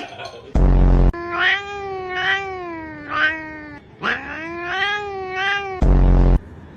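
Domestic cat giving two long, drawn-out yowling meows, each wavering in pitch and swelling several times. A brief loud low buzz comes about half a second in and again near the end.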